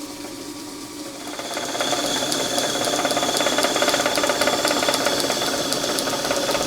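Metal lathe running while a boring tool cuts a bearing fit in a roller: a steady machine hum with a regular light ticking about three times a second, and a thin high whine from the cut coming in about a second in.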